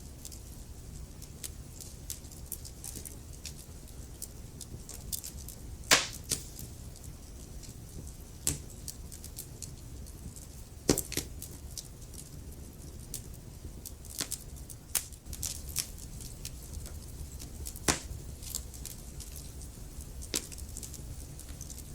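Wood fire crackling in a fireplace: a constant scatter of small snaps over a low steady rumble, with a few louder pops, the sharpest about six, eleven and eighteen seconds in.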